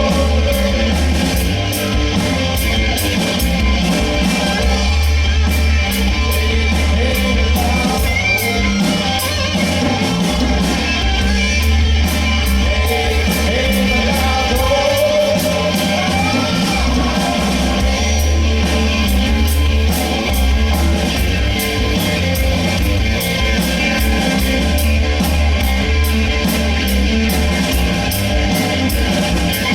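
Live rock band playing loudly, with electric guitar, bass and drums keeping a steady beat, and a singing voice at times.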